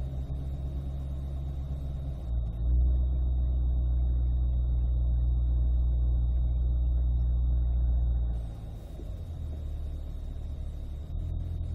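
Chevrolet Corvette V8 idling, heard from inside the cabin as the car creeps along in first gear and comes to a stop. The low rumble grows louder and deeper about two and a half seconds in and eases back about eight seconds in.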